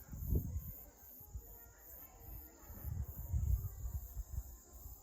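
Crickets chirping in a steady pulsing rhythm, about two to three pulses a second, with bouts of low rumble near the start and around three seconds in.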